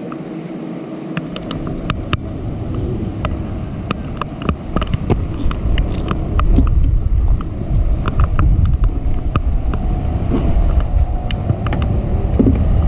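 Wind rumbling on the microphone, growing stronger a second or two in, with scattered sharp ticks throughout.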